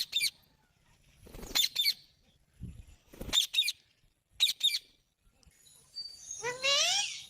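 Parrot giving short, shrill calls, mostly in quick pairs, then a longer call near the end that rises in pitch.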